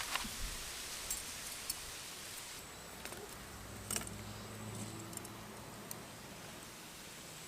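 A few scattered light clicks and knocks over a steady background hiss, with a faint low hum about halfway through.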